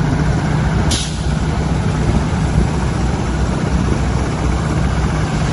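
Heavy truck engine running steadily with a low hum, and a short air-brake hiss about a second in.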